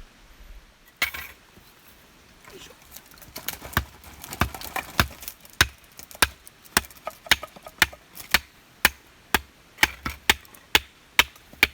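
Firewood being split by hand: a blade driven into a log with repeated sharp wooden knocks. After a single knock about a second in, the strikes start again and settle into a steady beat of about two a second as the wood splits along its grain.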